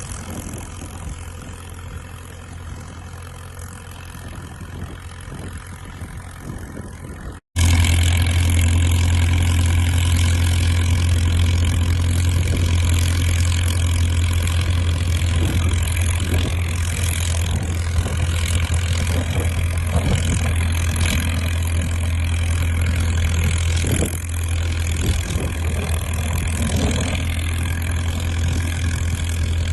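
Diesel engine of a Caterpillar crawler dozer running steadily with an even, deep drone. About seven seconds in the sound cuts out for an instant and comes back much louder.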